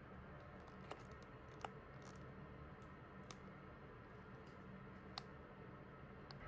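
Near silence: room tone with four faint, sharp clicks spread out at irregular intervals.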